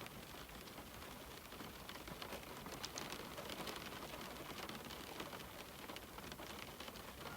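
Rain falling on a window pane: a steady hiss of rain with many small, quick taps of drops striking the glass.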